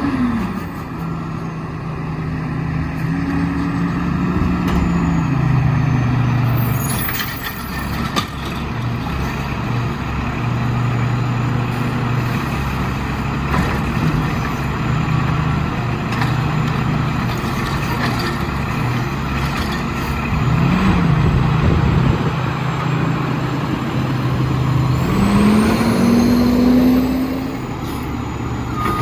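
Diesel engine of an Autocar WXLL garbage truck with a McNeilus Autoreach side-loader body running, its pitch settling down at the start, shifting through the middle and climbing again near the end. A short air hiss comes about seven seconds in.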